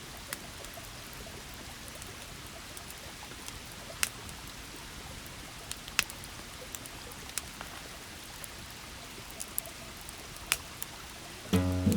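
A river murmuring steadily, with a few sharp clicks scattered through it. Music with a plucked note starts near the end.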